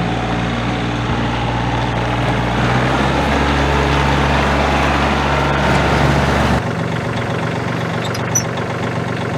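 2010 John Deere 3005 tractor's three-cylinder Yanmar diesel engine running steadily. It grows louder and heavier partway through, then changes abruptly about two-thirds of the way in to a lighter, steady run.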